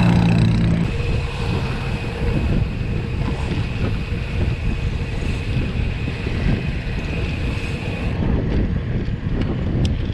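Wind buffeting the microphone of a rider on the move: a dense, steady low rumble, with a faint high steady whine that stops about two seconds before the end.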